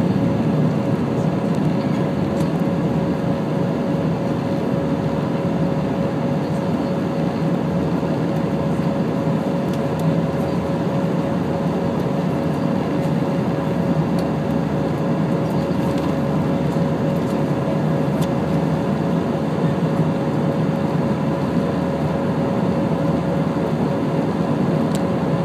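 Steady cabin drone of an Airbus A319 jet airliner in flight: engine and airflow noise with a constant hum and a steady mid-pitched tone, unchanging throughout.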